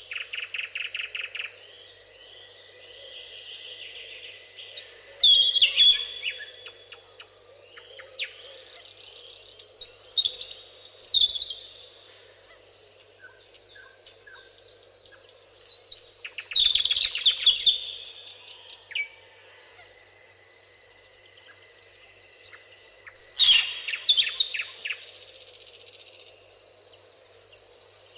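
Songbirds singing in a meadow: loud bursts of rapid chirping and trilled song recurring every few seconds, with softer calls in between, over a steady high thin insect-like tone.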